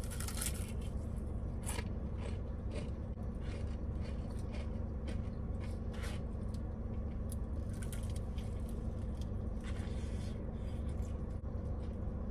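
Crispy fried-chicken breading crunching as it is bitten and chewed close to the microphone, with the biggest crunch at the first bite and smaller crunches throughout. A steady low hum runs underneath.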